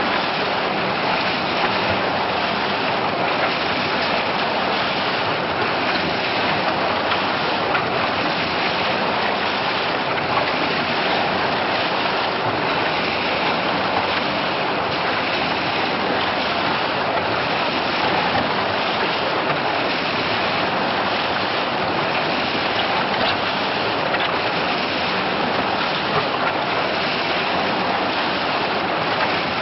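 JSS series twin-shaft concrete mixer running, its paddles churning a batch of concrete: a steady, unbroken rushing, sloshing noise with a faint steady machine hum underneath.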